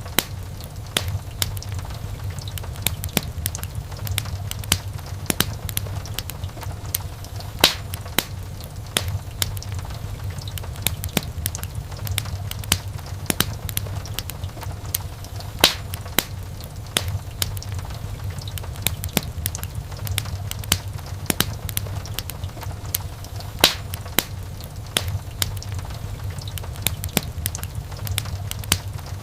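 Wood fire burning in a fireplace, crackling with frequent small irregular snaps and a few louder pops, over a steady low rumble.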